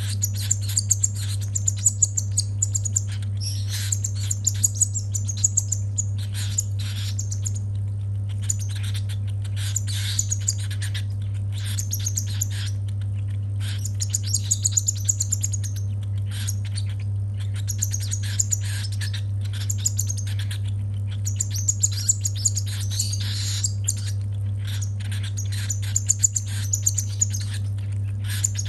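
Baby cockatiel chick making harsh, rapid food-begging chirps in repeated short bursts while being hand-fed. A steady low hum runs underneath.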